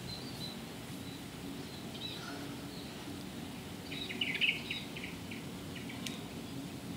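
Small birds chirping in short high bursts, a busier flurry about four seconds in, over a steady low background hum.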